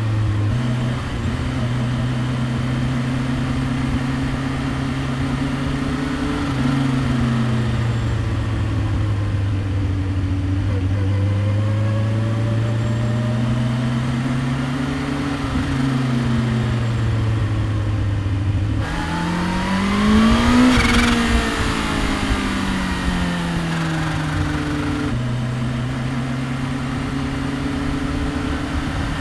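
2015 Kawasaki Ninja H2's supercharged inline-four running at low, fairly steady revs, its pitch drifting slowly up and down. About twenty seconds in the sound swells briefly, rising and then falling in pitch.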